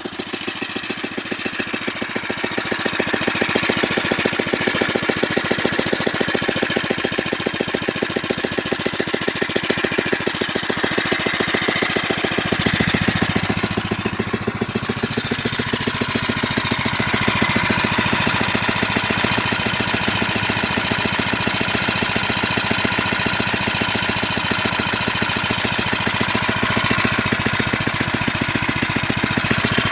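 Phatmoto Rover 79 cc single-cylinder four-stroke engine on a motorized bicycle idling, its firing pulses coming evenly at a steady level.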